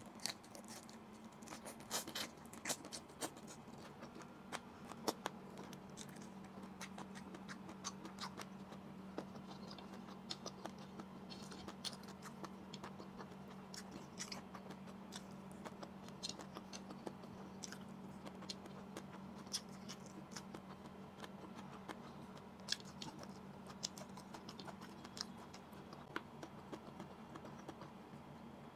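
Chewing and mouth smacking while eating shrimp, rice and vegetables by hand, with frequent short, sharp wet clicks over a steady low hum.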